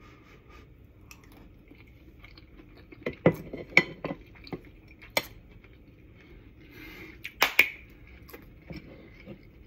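Close-up chewing of a mouthful of creamy rice casserole, with a scatter of sharp clicks and clinks, the loudest a cluster about seven and a half seconds in.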